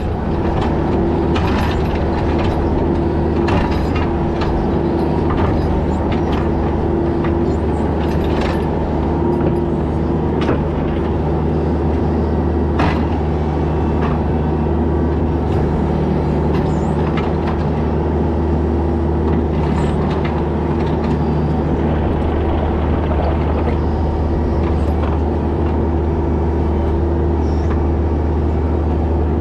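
Mini excavator's diesel engine running steadily under hydraulic load, with scattered clanks and scrapes of steel working on rock as the ripper tooth goes into it.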